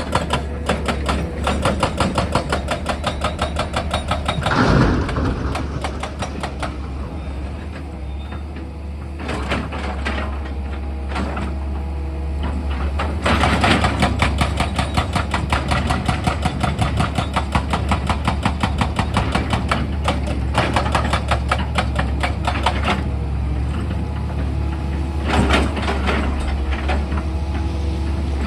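Excavator's diesel engine running with a steady low hum under the rapid, rattling hammering of a rock drill. The drilling comes in spells that stop and start again several times, and there is a short sweeping sound about five seconds in.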